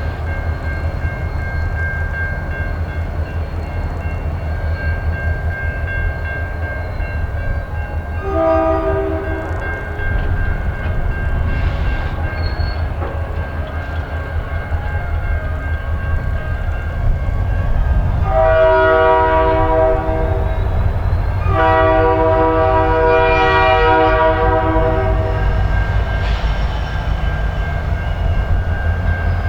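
Diesel switching locomotive running with a steady low rumble while its horn sounds: a short toot about eight seconds in, then two long blasts near the end, the usual signal that the train is about to move forward.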